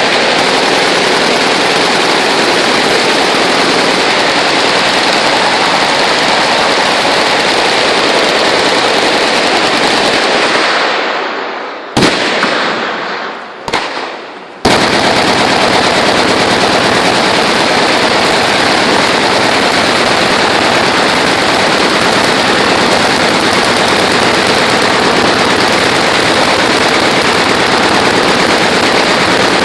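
Many machine guns firing at once in a continuous, overlapping clatter of automatic fire. It dies down and breaks off briefly about halfway through, with a couple of short bursts, then resumes at full intensity.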